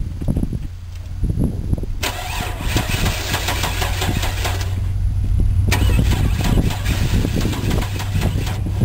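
Chevrolet Blazer engine being cranked in two long spells and failing to fire properly. The owner puts it down to an ignition fault, a corroded distributor cap and rotor.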